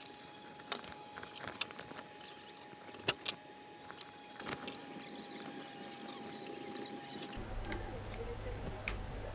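Scattered light clicks and taps of parts being handled as a DIY dust boot is taken off a homemade CNC router. A low steady hum comes in about three-quarters of the way through.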